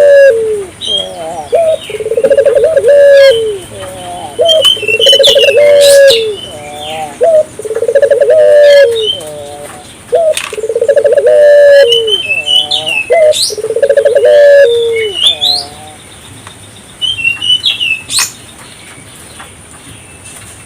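Puter doves (Barbary doves) cooing over and over, a rolling coo about every two seconds. Small birds chirp higher over them. The cooing stops about three-quarters of the way through, leaving only the chirps.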